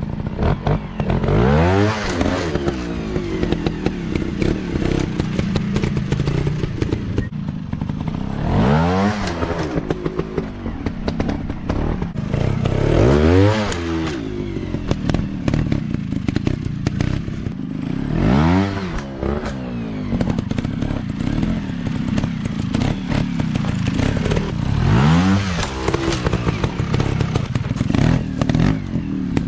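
Dirt bike engines revving up and dropping back again and again, about every four to six seconds, under constant clattering and knocking.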